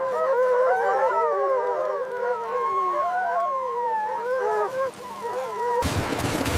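A wolf pack howling in chorus, several overlapping howls rising and falling in pitch, that cuts off suddenly near the end.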